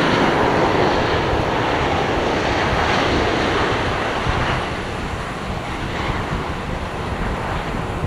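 Jet airliner engines, a loud, steady rushing that fades over the second half as the plane moves away.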